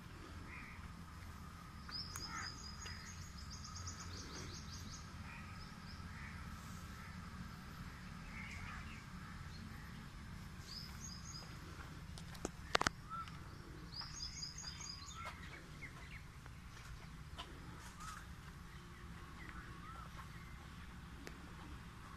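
Birds calling outdoors: bursts of rapid, high-pitched chattering notes a few times, with scattered short chirps between. A steady low rumble runs underneath, and a single sharp knock about 13 seconds in is the loudest sound.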